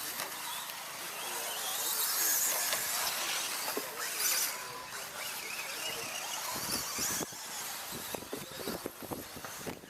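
1/10-scale electric brushless 2WD stadium trucks racing on an off-road track: a high whine and hiss of motors and tyres. In the second half there is a run of quick clattering knocks.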